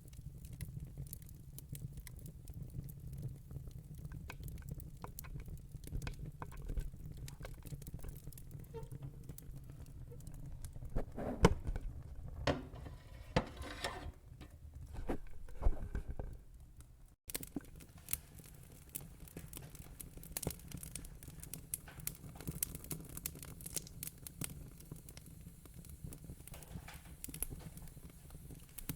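Wood fire in a fire pit crackling and popping over a low rumble, with the loudest pops between about 11 and 16 seconds in. The sound drops out for an instant around 17 seconds in, then the crackling goes on.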